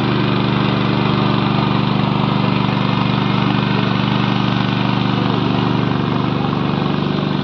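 Farm engine running steadily at an even speed while ploughing, with no change in pitch or level.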